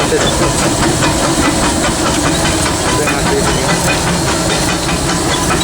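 Steady loud hiss of steam with the rumble of the running gear, heard in the cab of a steam locomotive under way.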